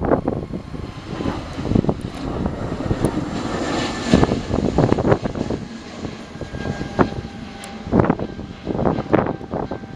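Engine noise of an airplane flying past, swelling to its loudest about four seconds in, with wind buffeting the microphone throughout.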